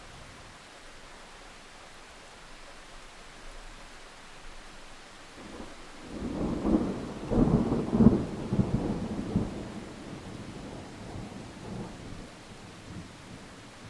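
Steady rain hiss with a thunderclap rolling in about six seconds in. It cracks sharply at its loudest, then rumbles for several seconds before dying away.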